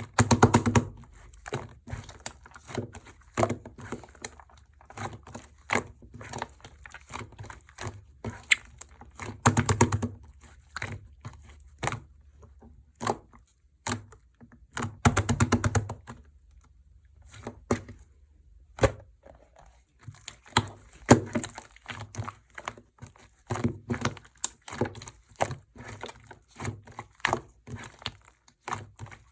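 Clear glitter slime being worked by hand, giving a string of small wet pops and clicks, with a few denser crackling runs as it is squeezed and pressed.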